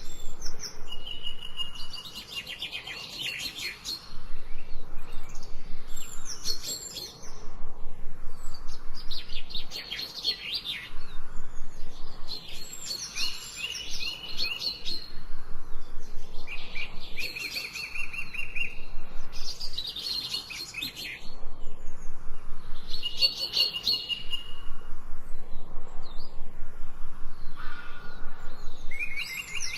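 Songbirds singing: repeated phrases of rapid chirping notes, each lasting about two to three seconds, with short pauses between them.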